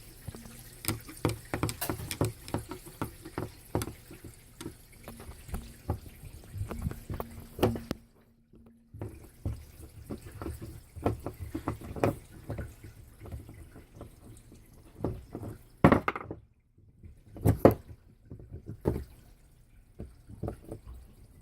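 Irregular small clicks and ticks of a screwdriver turning screws out of a Well VSR-10 airsoft rifle and of small metal and plastic parts being handled, with two louder knocks about two-thirds of the way through.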